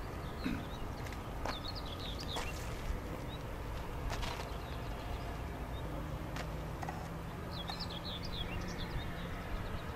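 Small birds chirping in two short bursts of quick high twitters, over a steady low outdoor rumble, with a few faint clicks.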